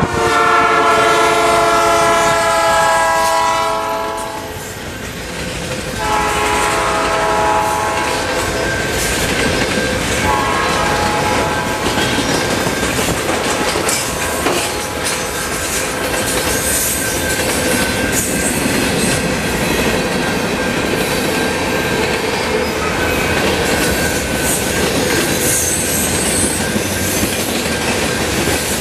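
A CN freight locomotive's multi-chime air horn sounds three blasts: a long one of about four seconds, a shorter one, then a brief one. Then the steady rumble and clickety-clack of freight cars rolling past, with faint wheel squeal.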